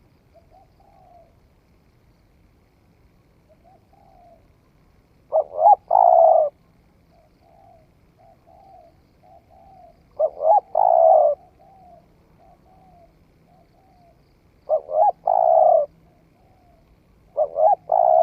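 Spotted dove cooing. It gives four loud phrases about every four to five seconds, each two short notes and then a longer coo, with softer short coos in between.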